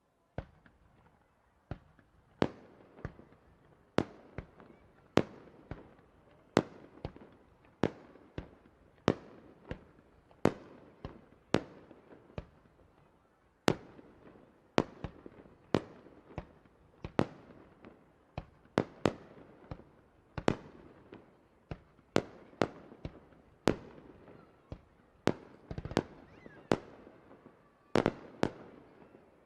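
Aerial fireworks shells bursting one after another, roughly one sharp bang a second, each fading away in a short echoing tail.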